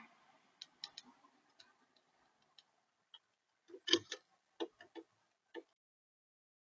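A string of sharp taps and a few heavier knocks on a smart bird feeder, picked up by the camera built into it, as a visiting bird or squirrel feeds; the loudest knocks come about four seconds in.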